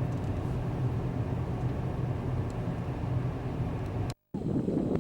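Engine running steadily with a low drone under road or water noise. A little after four seconds the sound drops out for an instant at an edit cut, and a rougher, windier engine and water noise follows.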